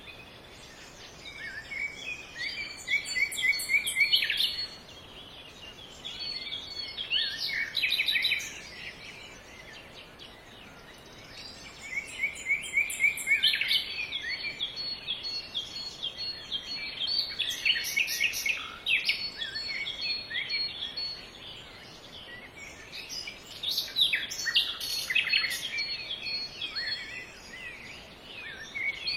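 Songbirds singing, with phrases of quick chirps and trills coming every few seconds, some with very high thin notes, over a faint steady background hiss.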